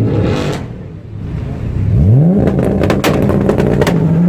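Nissan sports car engine being revved: one rev dies away at the start. About two seconds in, the revs climb sharply and are held high, with a run of crackling pops from the exhaust. Another rev begins near the end.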